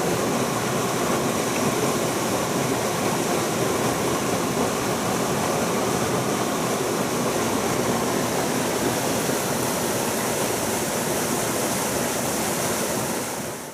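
Mountain stream water rushing steadily over rocks, a continuous even roar that cuts off abruptly at the very end.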